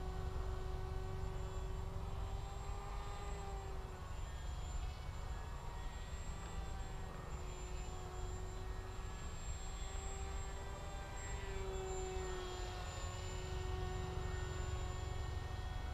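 Electric motor and propeller of a Bixler RC foam plane whining in flight: a steady buzzing tone whose pitch drifts up and down a little, over a low rumble.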